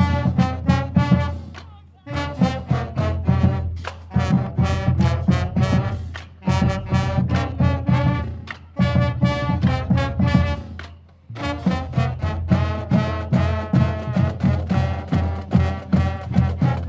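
High school band's brass section playing an upbeat tune in short, punchy phrases about two seconds long, each followed by a brief break.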